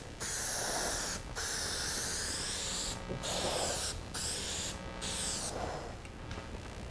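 Aerosol spray-paint can hissing in repeated passes, broken by short pauses about every second or two, as a wet finish coat goes onto a plastic bumper cover.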